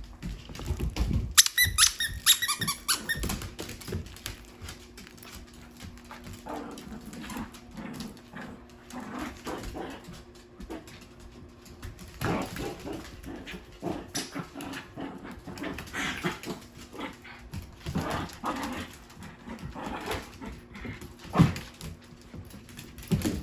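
Two dogs playing together, with irregular short bursts of dog noise throughout and a high-pitched squeak about two seconds in.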